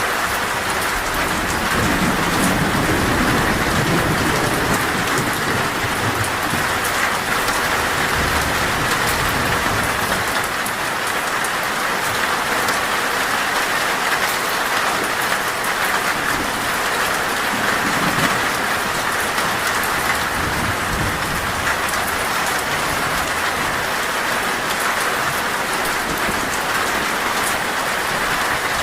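Heavy rain drumming steadily on a metal roof, with low rolls of thunder swelling in near the start and again just past the middle.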